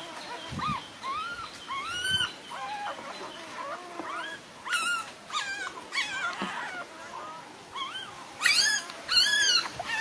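Dogs whining and whimpering in a string of short calls that rise and fall in pitch. The calls grow louder near the end.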